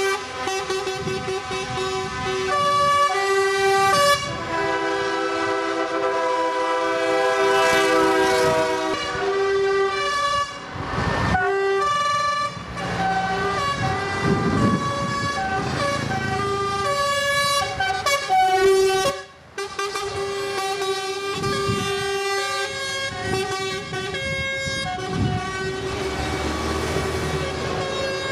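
Truck air horns blowing, several at once at different pitches, in long held blasts that start and stop and overlap into chords. A short rushing noise comes about eleven seconds in.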